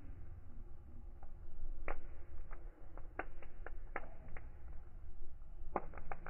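Wood fire crackling in a fireplace: irregular sharp pops, about a dozen, bunched around the middle and near the end, over the steady low rumble of the flames.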